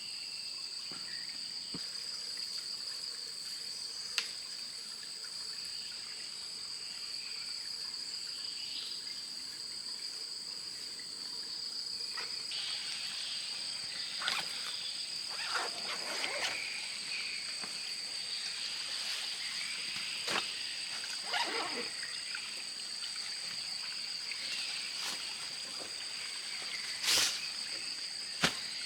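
Steady, high-pitched chorus of forest insects, two even shrill tones that never let up. Scattered sharp knocks and a few short rustling or scraping sounds come and go over it, the loudest near the end.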